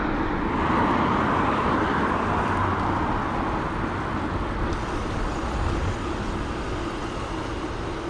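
Steady rushing road noise while cycling: wind on the camera mixed with passing traffic, louder in the first couple of seconds and slowly easing off.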